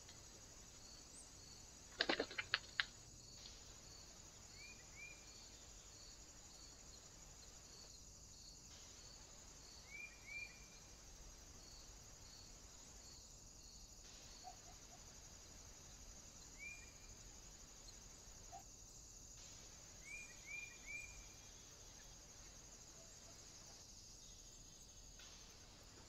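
Small birds at a feeder giving short high chirps in pairs and threes several times, over a faint steady high insect hiss with a regular chirping pulse in the first third. About two seconds in comes a quick run of five or so sharp taps, the loudest sound.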